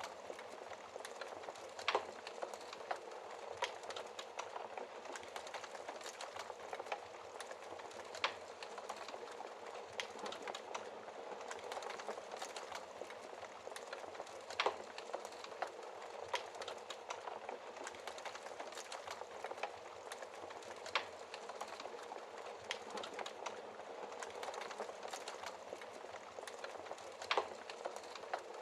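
Wood fire burning in a fireplace: a steady hiss with many small crackles and an occasional louder pop, about every six seconds.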